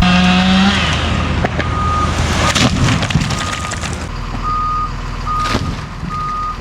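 Loader's back-up alarm beeping about once a second over its diesel engine running as it reverses.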